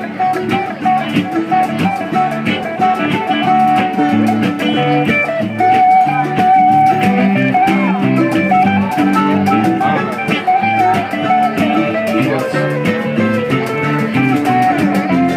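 Live acoustic band playing an instrumental passage: guitar and mandolin with steady hand-drum beats from congas.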